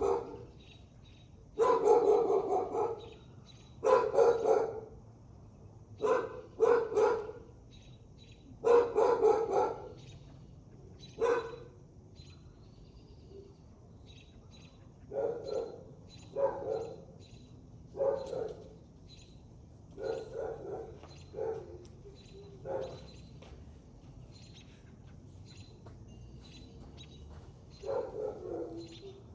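A dog barking repeatedly, about a dozen barks and short volleys spaced a second or two apart, some in quick doubles. They are louder in the first half and fainter later.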